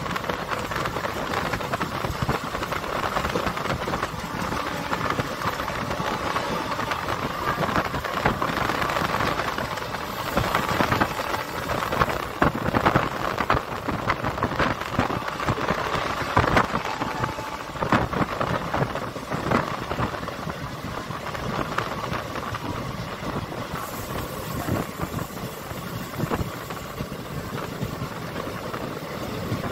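An express train running, heard from on board: a steady rush of wheels on rails and passing air, with irregular clanks and knocks that come thickest in the middle.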